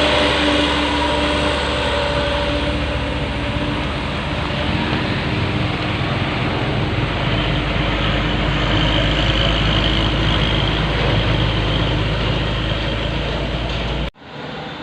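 Heavy diesel dump truck engine running under steady load. Its low drone deepens about halfway through, and the sound cuts off abruptly near the end.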